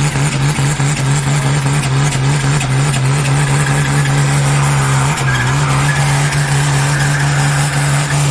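Pulling tractor's diesel engine running flat out at high, steady revs under load during a hook, with a brief dip in pitch about five seconds in before it recovers.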